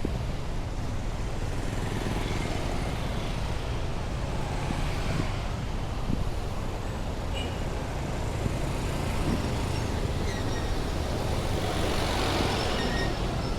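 Heavy rush-hour road traffic: a steady low rumble of cars, buses and motorcycles, swelling as a vehicle passes close about twelve seconds in, with a few brief high squeals near the end.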